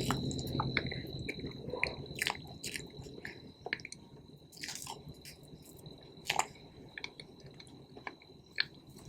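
Close-miked chewing of cake: soft, wet mouth sounds with many small clicks and smacks, busiest and loudest in the first second or so, then sparser, with a few sharper smacks later.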